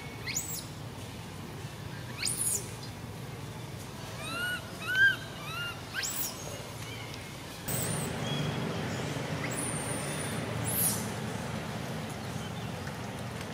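Birds calling: several sharp, high descending whistles at intervals, and a quick run of short arched chirps in the middle, over a steady outdoor hiss that grows louder just past halfway.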